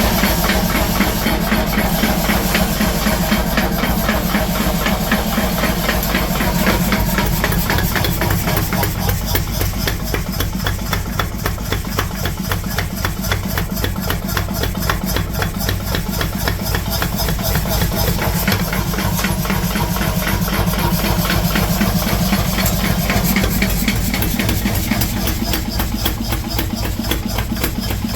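Workshop machinery running steadily: a low hum under a fast, even mechanical clatter.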